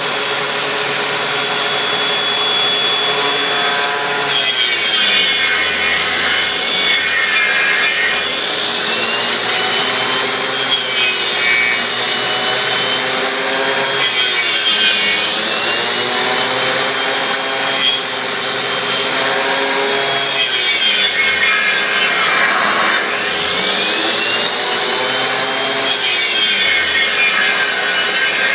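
A power saw blade on a homemade copy lathe cutting a spinning wood blank, over the steady run of the motors. The pitch sags each time the blade bites into the wood and climbs back as it frees, about four times.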